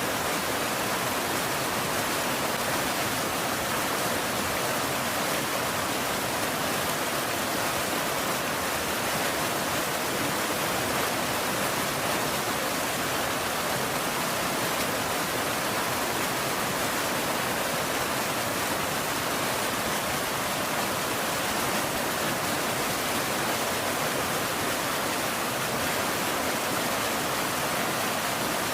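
Steady rain falling, a dense even hiss without single drops standing out and without thunder.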